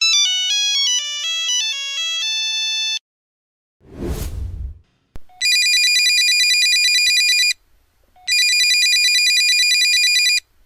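A short ringtone melody of chime-like notes, then a whoosh. After a click, a telephone rings in two bursts of about two seconds each with a short gap between, a bright ring that ripples quickly.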